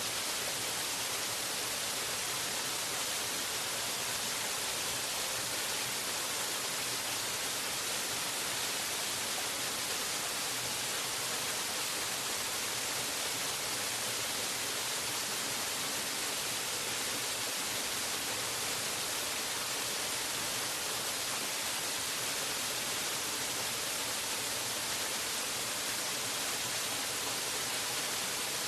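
Waterfall: a steady, unchanging rush of falling water, a dense hiss strongest in the high range.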